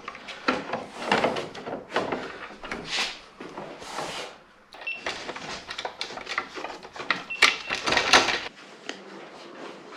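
Hands working motorcycle parts: a run of clicks, knocks and rustling, loudest in a cluster about seven to eight seconds in.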